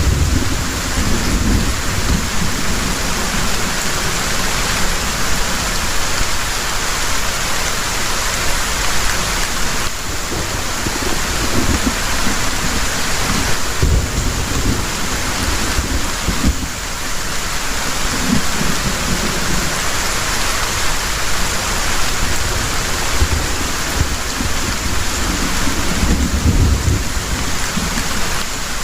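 Heavy rain falling in a steady, dense hiss, with low thunder rumbling on and off underneath.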